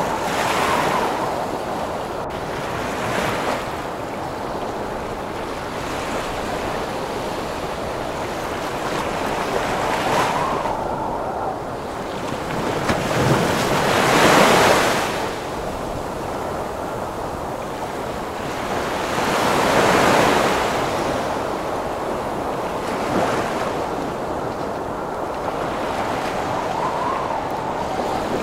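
Heavy ocean surf in a wind storm: a continuous rush of wind over waves breaking and washing in every few seconds. The biggest wave comes about halfway through, with a faint whistle of wind here and there.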